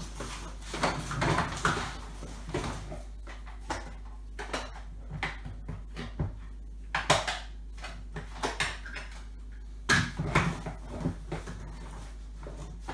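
Irregular plastic clicks and knocks of a Nilfisk Aero 26 vacuum's parts being handled and pushed back together after a bag change, with a few louder knocks about seven and ten seconds in.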